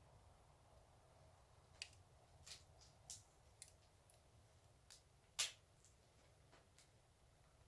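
Fireplace fire crackling faintly, with scattered sharp pops at irregular intervals; the loudest pop comes a little past five seconds in.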